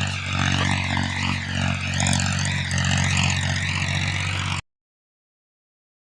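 Steady, engine-like vehicle drone with a wavering higher tone over it. It cuts off abruptly to dead silence about four and a half seconds in.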